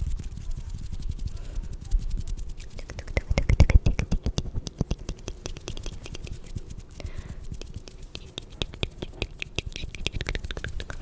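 Close-miked ASMR trigger sounds: a dense run of fast clicks, with a louder stretch about four seconds in.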